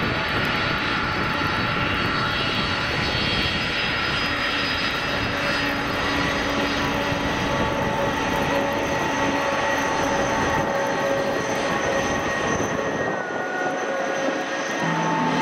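The four turbofan engines of a Boeing 747-400 running at takeoff thrust: a loud, steady jet noise with several steady whining tones in it. The deepest rumble thins out a little near the end.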